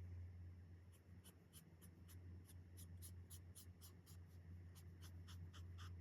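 Chen Rui alcohol marker nib stroking back and forth on coloring-book paper: faint, quick scratchy strokes about three or four a second, starting about a second in, over a steady low hum.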